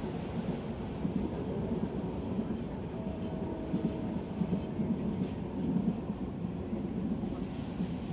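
Passenger train running: a steady low rumble of the carriage on the rails, with a faint thin whine for a couple of seconds about three seconds in.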